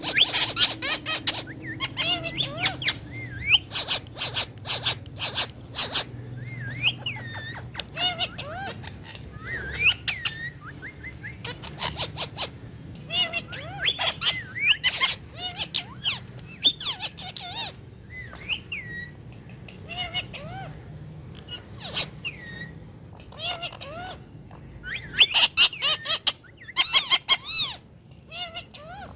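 Indian ringneck parrot giving short squeaky chirps and whistled calls, scattered throughout. Between them come clusters of sharp clicks and taps.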